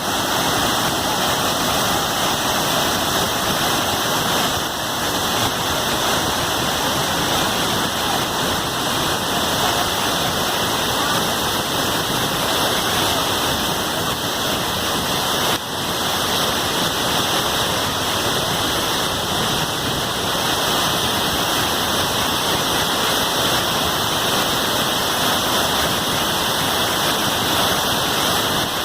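A large waterfall pouring, a loud, steady rush of falling water.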